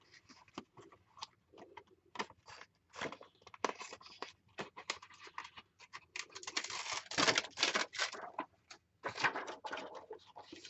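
Rustling and small clicks of rub-on transfer sheets and craft papers being handled, with two busier spells of crinkling in the second half.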